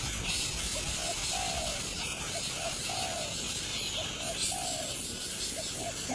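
A dove cooing a repeated phrase of two short notes and one longer, slightly falling note, about every second and a half, over a steady high hiss.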